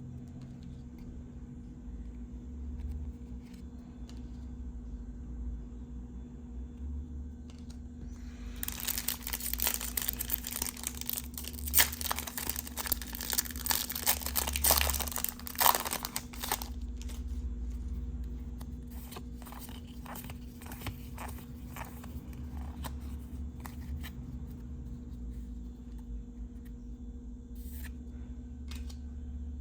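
Foil wrapper of a Yu-Gi-Oh booster pack being torn open and crinkled, a dense crackling for about eight seconds starting about a third of the way in, then scattered light clicks of the cards being handled. A steady low hum runs underneath.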